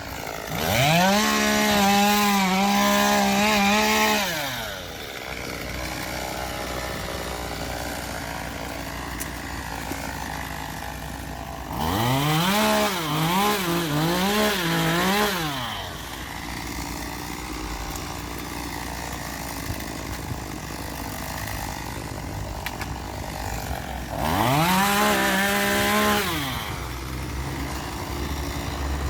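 Small gas chainsaw revved up three times, each burst lasting two to four seconds: the pitch climbs to a high whine, holds, then drops back to idle. The middle burst wavers up and down.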